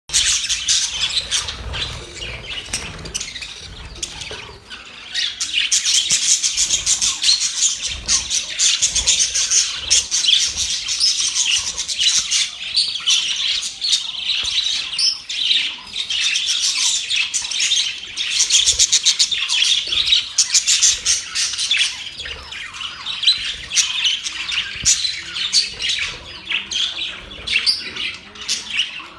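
Budgerigars chattering without pause: a dense, high-pitched stream of warbles, chirps and rapid clicking calls.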